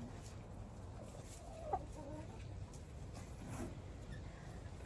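A hen clucking quietly, with one short, clearer cluck a little under two seconds in.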